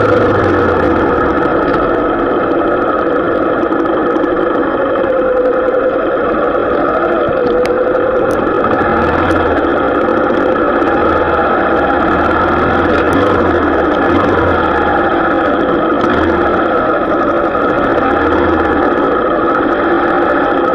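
Motorcycle engine running steadily on the move, its pitch rising and falling slightly with speed.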